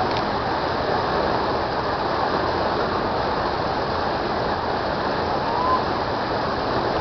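Steady rush of churning water from a river rapids ride's channel.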